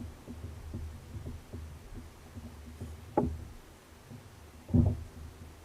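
Knocks on a kayak, as gear or a paddle bumps the hull: faint knocks, a sharper one about three seconds in and a louder thud near five seconds, over a low steady rumble.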